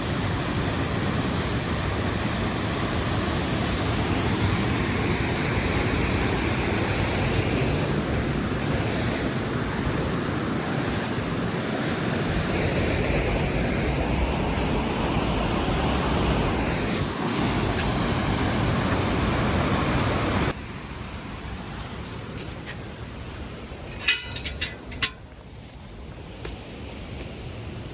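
Aira Force waterfall rushing, a loud even wash of falling water. About twenty seconds in it drops suddenly to a quieter rush, with a few sharp clicks near the end.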